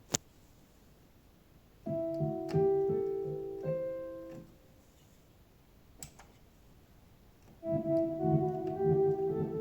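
Korg Karma keyboard played through an Eventide H3000 effects processor: a short phrase of piano-like notes about two seconds in that dies away, then a second phrase near the end. A sharp click comes just at the start and another about six seconds in.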